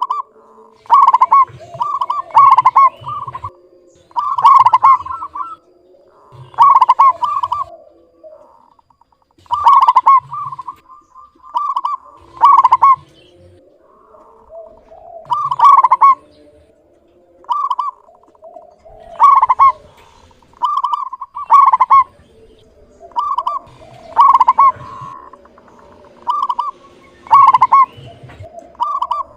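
Zebra dove (perkutut) cooing in full song: a short run of quick, clear notes, repeated about every two seconds.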